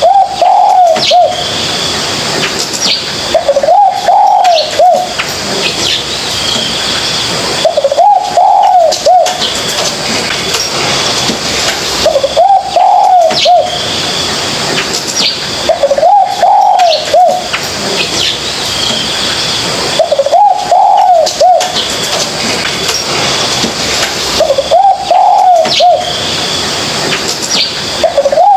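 Spotted dove cooing: a short phrase of a few coos repeated about every four seconds, with faint high chirps underneath.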